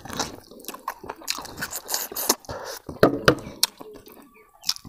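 Close-up eating sounds: biting into and chewing a fatty piece of pork trotter, with many short wet smacks and clicks of the lips and mouth.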